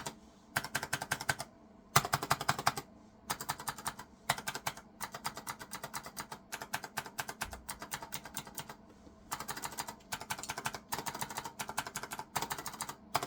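Keys on a freshly cleaned keyboard, their keycaps just put back on, pressed rapidly over and over. The clicking comes in bursts of many presses a second with short pauses between them.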